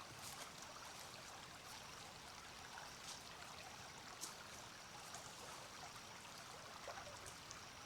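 Faint, steady rush of a small stream's flowing water, with a couple of light ticks about three and four seconds in.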